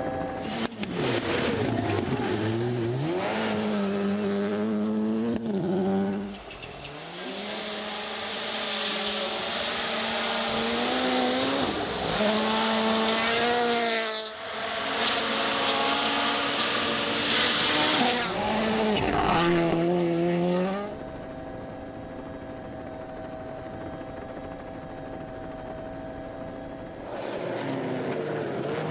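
Rally cars' engines revving hard, pitch climbing and dropping through quick gear changes, in several short clips cut together; one quieter, steadier stretch comes about two-thirds of the way in.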